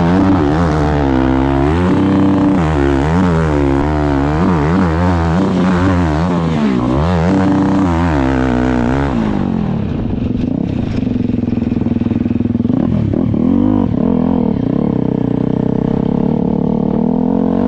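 KTM dirt bike engine revving hard on a hillclimb, its pitch rising and falling rapidly as the throttle is worked. About halfway through it drops to a lower, steadier running note with a few clicks.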